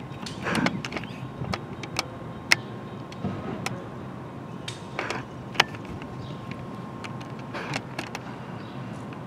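Background ambience with scattered sharp clicks and knocks, the loudest about two and a half and five and a half seconds in, over a faint steady tone that stops near the end.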